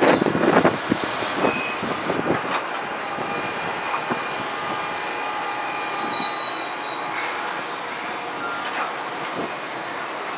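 NJ Transit electric commuter train rolling past on a nearby track. Its wheels clack over rail joints in the first second or so, then settle into a steady rumble with thin, high wheel squeal that comes and goes.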